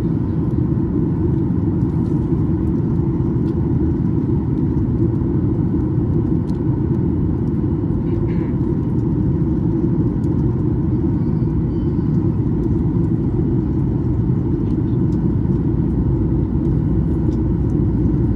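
Steady low cabin rumble inside a Boeing 737 MAX 9, the drone of its CFM LEAP-1B engines and airflow, holding an even level.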